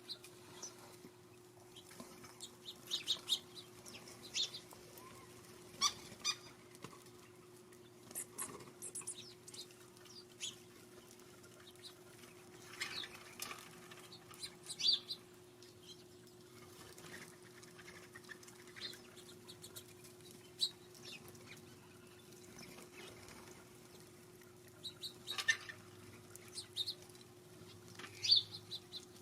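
Small birds at a feeder giving scattered short, high chirps and calls, loudest about 3, 6, 15, 25 and 28 seconds in, over a faint steady hum.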